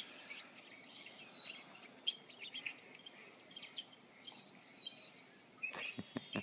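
Recorded birdsong playing from a Nexus 7 tablet's small speaker: repeated chirps and several short downward-sweeping whistled calls. A few soft clicks come near the end.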